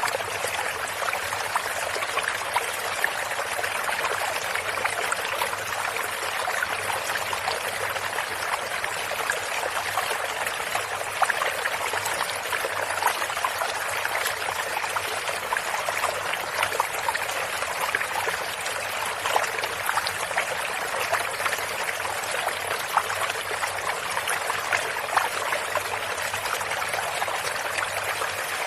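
Shallow stream water running and trickling steadily, with many small splashes and bubbling ticks through it.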